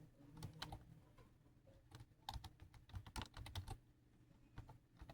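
Faint typing on a keyboard: irregular clusters of clicks, about half a second in, around two seconds, and again around three seconds, over a low steady hum.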